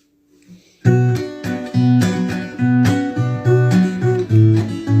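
Acoustic guitar strumming chords in a steady rhythm, starting just under a second in.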